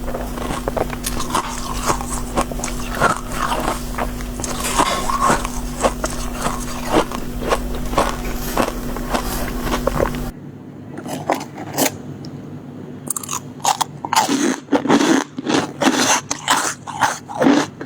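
Biting and chewing soft shaved ice close up, a dense run of crisp crunches and crackles. A low steady hum sits underneath and cuts off abruptly a little past halfway, after which the crunches stand alone.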